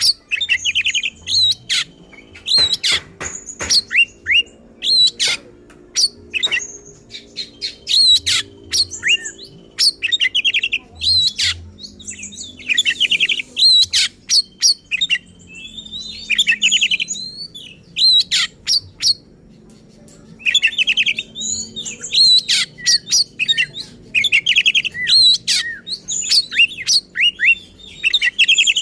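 Oriental magpie-robin (kacer) singing hard and persistently: rapid, loud, sharp downward-swept whistles, harsh trills and varied phrases, with only short pauses. It is the fired-up, aggressive song that bird keepers call ngotot and emosi, full of mimicked phrases (isian).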